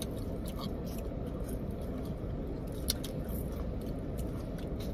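Close-up chewing of chicken wings, with small wet clicks and smacks from the mouth; one sharper click comes about three seconds in. A steady low rumble runs underneath.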